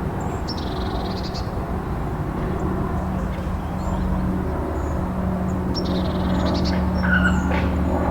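Birds giving short harsh calls three times over a steady low rumble and hiss.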